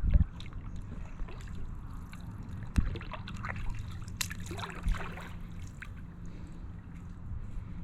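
Kayak paddle dipping and splashing in calm water, with trickling and dripping between strokes, and a few short low thumps over a steady low rumble.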